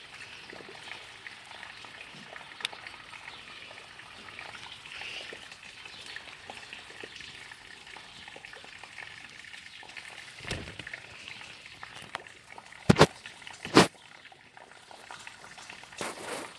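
Steady rain falling in a vegetable garden, an even hiss, broken by a few knocks, the two loudest about a second apart near the end.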